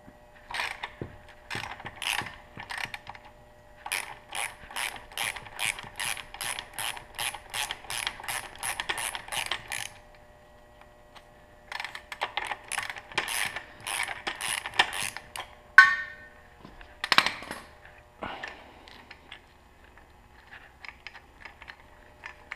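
Ratchet wrench clicking in quick runs of about three clicks a second as a bolt on a motorcycle's steering triple tree is unscrewed. About two-thirds of the way through come a sharp metallic clank with a brief ring and a second knock soon after.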